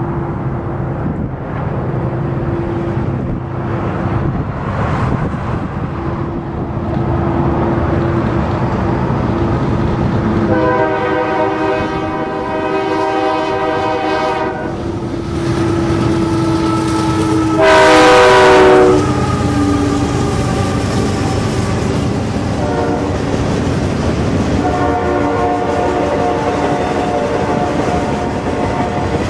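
Diesel freight train approaching and passing, its horn sounding several blasts: a long one about a third of the way in, a louder, shorter one a little past the middle whose pitch drops as the locomotives go by, then a short blast and a long one near the end. Underneath, engine rumble and the freight cars rolling past on the rails.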